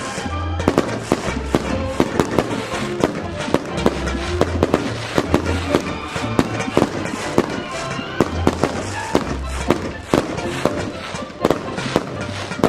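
Fireworks going off in rapid succession: sharp bangs and cracks several times a second without pause, over background music with a deep bass line.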